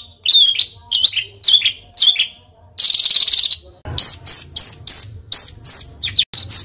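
Small songbird giving a rapid series of short, harsh calls, each sweeping down in pitch, with a buzzy trill about three seconds in and a faster run of calls from about four seconds on.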